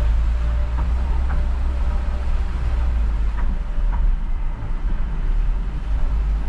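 Car driving, a steady low rumble with a few faint clicks in the first few seconds.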